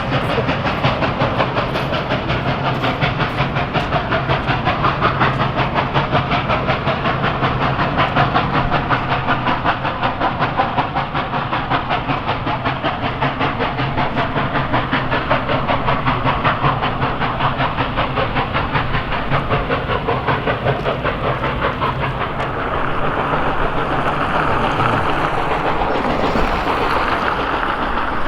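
Steam train running, with a steady, rapid beat that carries through the whole stretch.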